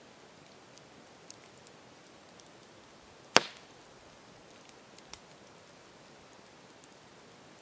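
Campfire burning with a steady soft hiss and scattered small crackles, and one loud sharp pop of burning wood about three and a half seconds in, with a smaller pop a couple of seconds later.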